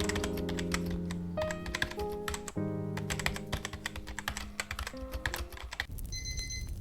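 Computer keyboard typing, a fast stream of key clicks, over a few held music chords that stop about six seconds in.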